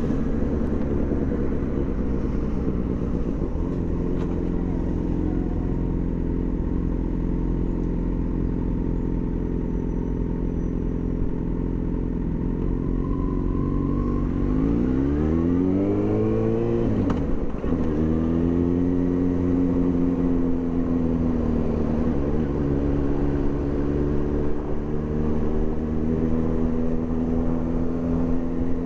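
Yamaha FZ6 Fazer's 600 cc inline-four engine through a homemade aftermarket exhaust, heard from the rider's seat. It runs at a steady note, revs up about halfway through, drops sharply, then settles at a steady, slightly higher note.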